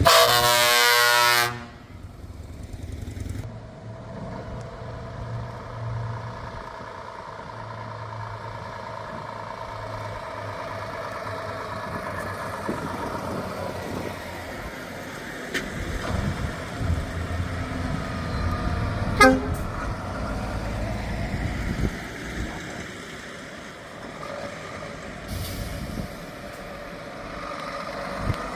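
A truck air horn sounds one loud blast lasting about a second and a half. Then heavy truck engines run as the trucks pull away, with a short falling squeal about two-thirds of the way through.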